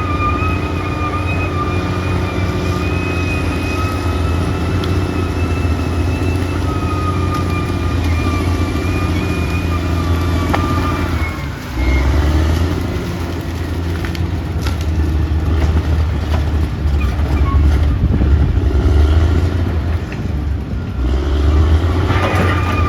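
Caterpillar D6R XL bulldozer's diesel engine running, with a steady high whine over the low engine sound through the first half; the sound dips briefly about halfway through, then the engine carries on.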